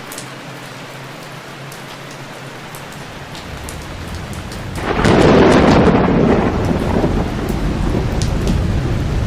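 Steady rain hiss, then a loud rumble of thunder that swells suddenly about five seconds in and slowly rolls away.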